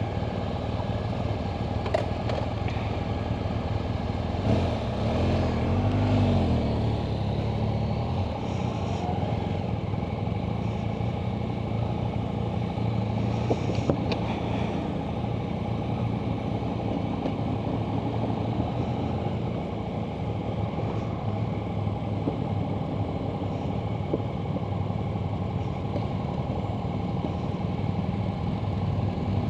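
Yamaha Tracer 900's three-cylinder engine running at low, steady revs, with a brief rise and fall in pitch about five seconds in.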